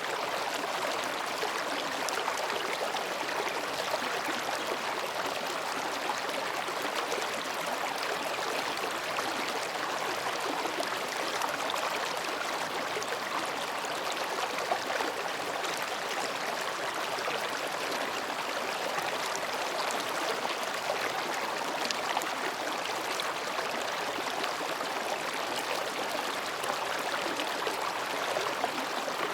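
Mountain stream flowing gently between rocks: a steady babbling rush of water.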